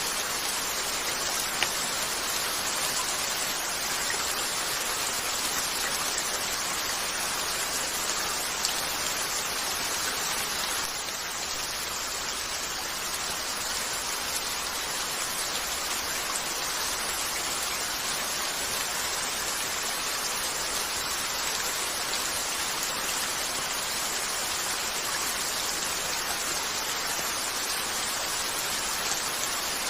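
Steady rain falling on a window, an even hiss, with a couple of sharp pops from a crackling wood fire, one near the start and one about nine seconds in.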